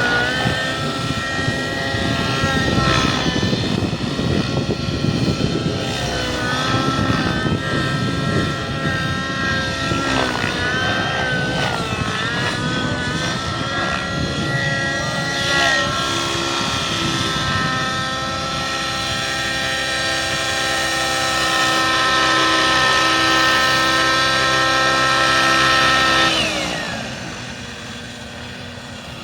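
Radio-controlled helicopter flying, its motor and rotor whine rising and falling in pitch, then holding steady. About 27 seconds in the whine glides down in pitch and drops off as the rotor winds down.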